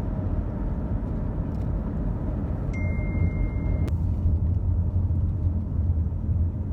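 Steady low road and engine rumble heard inside a minivan's cabin while driving.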